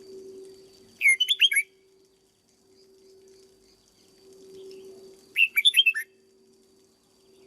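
Red-whiskered bulbul singing two short phrases of quick notes, about a second in and again about five seconds in, over a faint steady hum.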